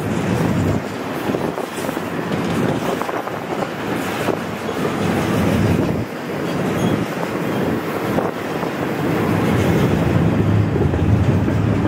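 Double-stack container freight train's well cars rolling past close by: a steady rumble with the clatter of steel wheels on the rails.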